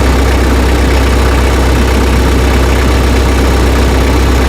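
Tractor engine idling steadily, a loud, even low rumble.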